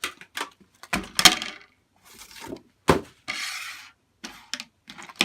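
A parcel being unpacked by hand: scattered knocks and clinks as items are handled, louder about one and three seconds in, and a short rustle of packaging just after the second.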